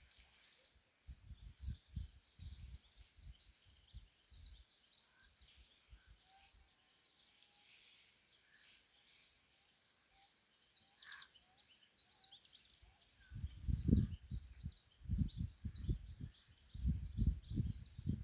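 Small birds chirping faintly and continuously over two runs of low, irregular thuds, the second and louder one near the end.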